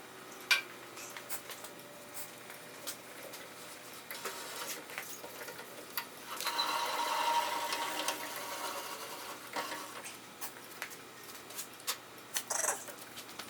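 Clicks, knocks and a few seconds of scraping from tools and metal parts being handled during a table-saw teardown. There is one sharp click about half a second in, and a longer scraping stretch a little past the middle.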